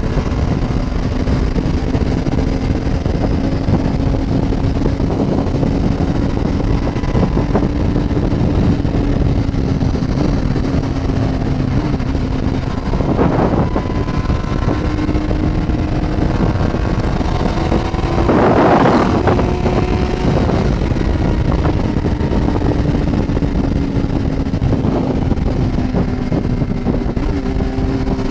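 Motorcycle engine running at steady cruising speed under heavy wind rush, its pitch rising a little toward the middle and easing off later. A brief louder rush comes about two-thirds of the way through.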